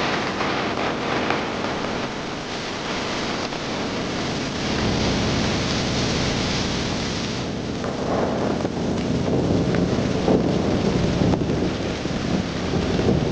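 Heavy rain falling steadily, with a low rumble of thunder that builds about four seconds in and carries on through the rest.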